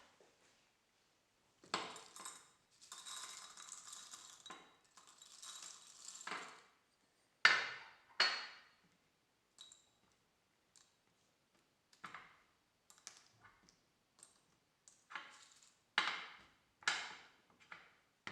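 Kitchen handling sounds: a series of separate clinks and knocks of dishes and utensils being set down and moved, a few of them ringing briefly. A stretch of continuous rustling noise runs from about two to six seconds in.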